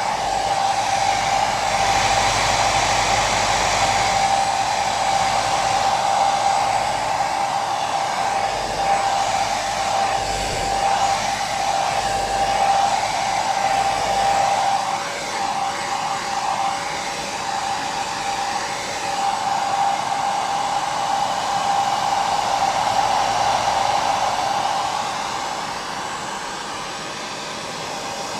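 Hair dryer running continuously: a steady rush of air with a constant motor whine. The whine wavers a little about halfway through.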